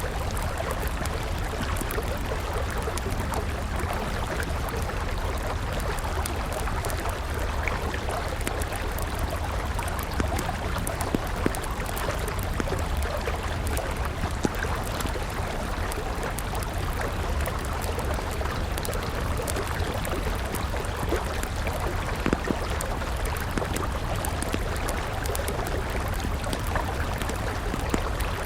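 A river flowing steadily, with a wood campfire crackling over it in scattered, irregular pops.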